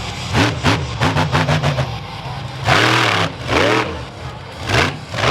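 Monster truck engine revving in repeated bursts, the pitch swooping up and falling back several times with loud surges of throttle.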